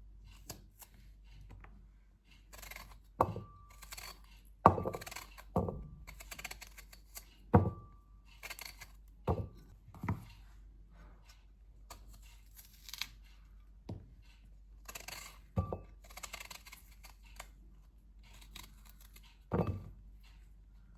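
Small hard objects set down one by one on a hard surface, about nine knocks, most with a short ringing clink, between soft rustling of handling.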